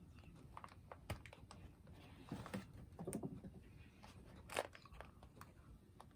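A cat handling a cardboard box and its toy, making scattered scratches, clicks and crunchy rustles in short clusters. The sharpest click comes about four and a half seconds in.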